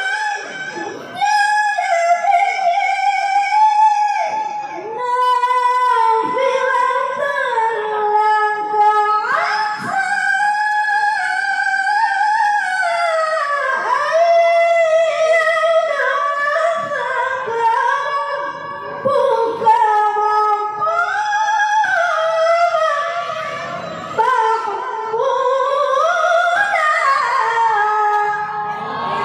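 A woman reciting the Qur'an in melodic tilawah style, holding long high notes with ornamented glides and brief pauses for breath.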